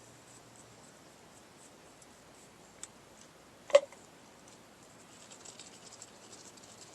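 Drum brake parts being handled: a faint click, then one sharp click with a brief ring about four seconds in, followed by light clicking and rattling near the end.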